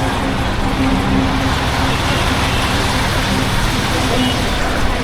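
Honda H'Ness CB350's single-cylinder engine running steadily under way, its exhaust note mixed with wind and road noise at a helmet chin-mounted camera.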